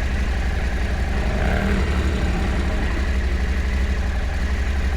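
Parallel-twin adventure motorcycle engine running at low revs, a steady low pulsing throb.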